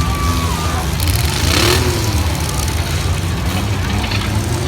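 Engines of demolition-derby compact trucks running with a loud, steady low rumble, one of them revving briefly about one and a half seconds in.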